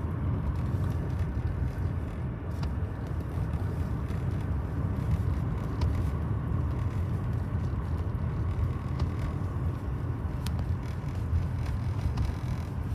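Steady low rumble of a distant empty coal train rolling by, with a few faint clicks.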